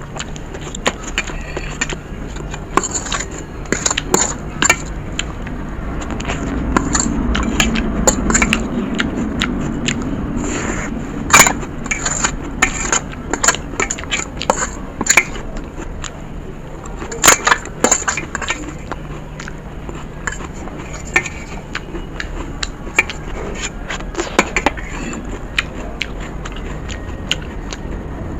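Close-miked eating sounds of masala Maggi instant noodles being eaten, with many irregular sharp clicks and smacks.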